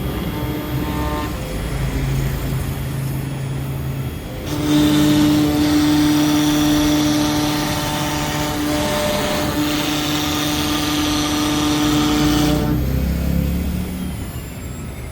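LXSHOW 6090 CNC router running with a steady, high-pitched motor whine. It gets louder about four and a half seconds in and falls away again near the end.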